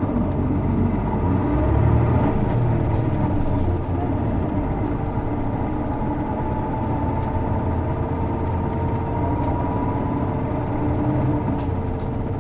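Isuzu Erga city bus diesel engine heard from inside the bus, pulling hard and building up about two seconds in, dropping back briefly near four seconds, then running steadily under load with a thin whine slowly rising. This is a unit whose engine the owner describes as making a characteristic abnormal noise, stronger than on other PKG-era Ergas.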